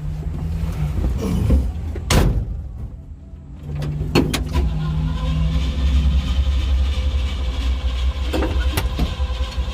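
Chevrolet dump truck engine and road rumble heard inside the cab while driving. There is a sharp knock about two seconds in and a brief lull around three seconds, then the engine picks back up, with a few more knocks near the end.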